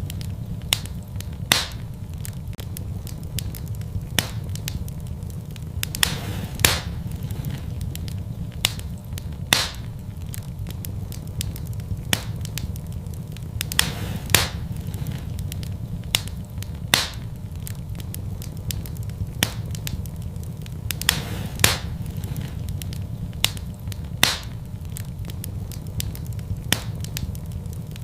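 Wood fire burning in a fireplace: a steady low rumble of flames with sharp crackles and pops at irregular intervals, roughly one or two a second, a few standing out louder.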